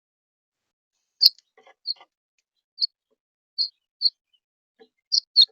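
A small bird chirping: about seven short, high single chirps at uneven intervals, starting a little over a second in, with no rain heard beneath them.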